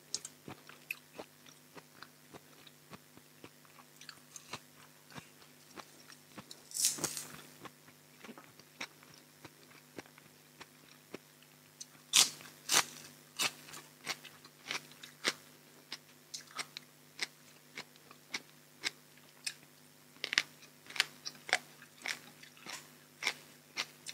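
Close-miked eating sounds: a mouth chewing with many small wet clicks, broken by loud crisp crunches of biting into fresh raw vegetables, one longer crunch about a quarter of the way in, the loudest about halfway through, and another cluster near the end.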